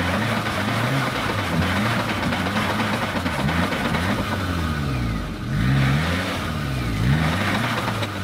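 Small off-road 4x4's engine revving up and down again and again, about once a second, as it is driven under load through deep mud.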